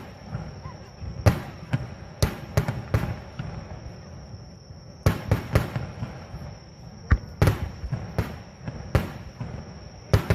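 Aerial fireworks shells bursting in clusters of sharp bangs. There is a short lull about halfway through, then a denser run of bursts toward the end.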